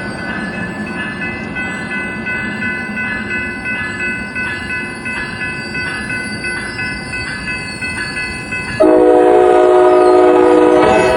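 Coaster commuter train's horn in a horn show: a loud chord of several notes blown steadily for about two seconds, starting about nine seconds in and stopping near the end. Before it, the train rumbles along with a high ringing that repeats rapidly.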